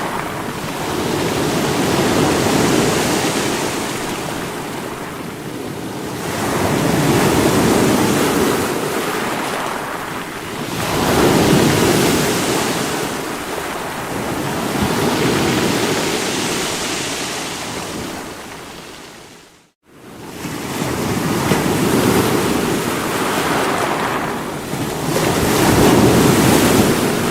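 Sea waves breaking against rocks, the surf swelling and ebbing about every four seconds. About twenty seconds in, the sound fades out to near silence for a moment and comes straight back.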